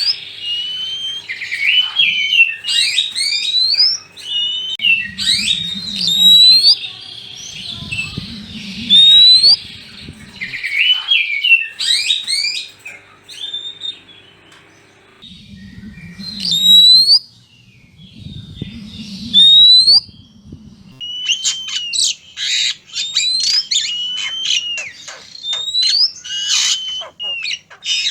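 Oriental magpie-robins (kacer) calling: repeated sharp rising whistles mixed with harsh chattering notes. This turns into a dense, rapid chatter after about 21 s. A low rumbling noise sits under the calls in two stretches.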